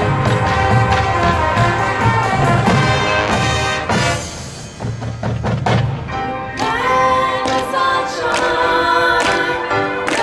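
Marching band playing its field show music: brass over pounding drums and timpani, dropping to a quieter passage about four seconds in, then swelling into long held chords, with voices singing, from about six and a half seconds in.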